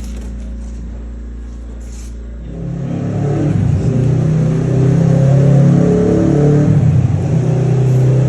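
Kawasaki Ninja 650's parallel-twin engine breathing through a full Akrapovic titanium exhaust. It runs low and steady, then about two and a half seconds in comes onto hard throttle and gets much louder, with brief dips in the note about a second later and again near the end.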